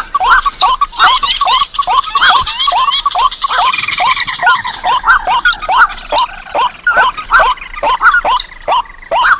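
Recorded calls of paddy-field and marsh birds such as rails, crakes and waterhens, layered into a bird-lure track: a fast, continuous run of short falling calls, about three a second, with higher chirps over them.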